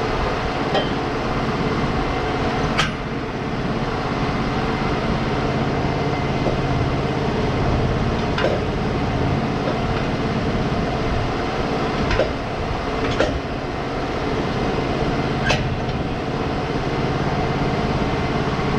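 Wood-Mizer LT35 sawmill's engine running steadily at idle, with a handful of sharp metal knocks spread through it as the leveling jacks are worked and tightened.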